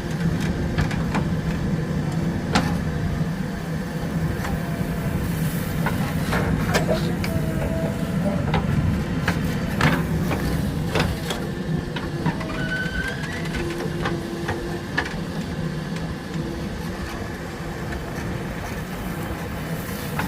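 JCB 3DX backhoe loader's diesel engine running steadily under work, with a few sharp metallic knocks and clanks from the machine.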